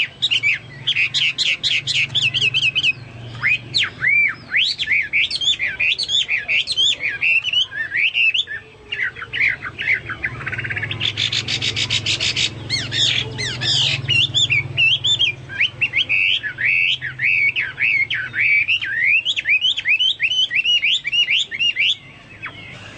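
Chinese hwamei singing continuously in a varied run of rising and falling whistles, in the manner of a cucak mas or cucak Papua. A fast even trill comes about eleven seconds in, and the song stops shortly before the end.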